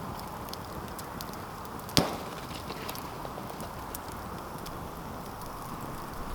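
Wood campfire crackling, with scattered small snaps over a steady low rush and one loud sharp crack about two seconds in.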